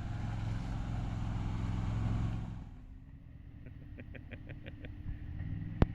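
Off-road buggy engine running, loud for the first two and a half seconds and then dropping to a quieter idle. A short run of quick ticks follows, then a single sharp click near the end.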